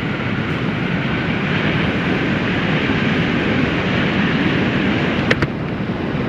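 Motorcycle riding noise: wind rushing over the rider's camera microphone with engine and road noise underneath, steady throughout, and a short sharp click about five seconds in.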